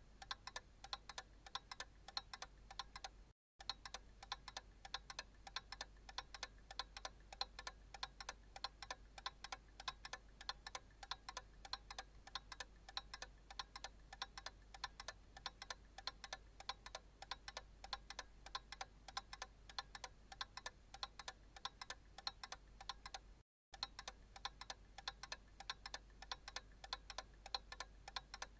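Analog clock ticking in a steady, even rhythm of soft clicks. The sound cuts out completely for a split second twice.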